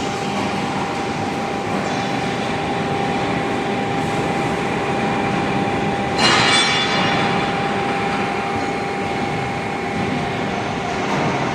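CNC hydraulic profile bending machine running steadily, its hydraulic unit giving a constant hum with steady tones. About six seconds in comes a brief, high metallic squeal that fades within a second, as of steel rubbing in the machine.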